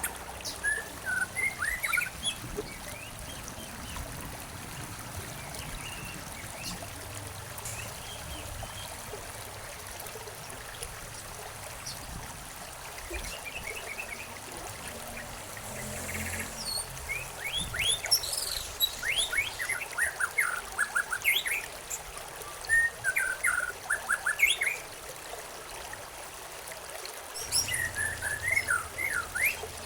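Songbirds chirping in quick bursts of short notes, in clusters near the start, through the middle and near the end, over a steady trickle of running water.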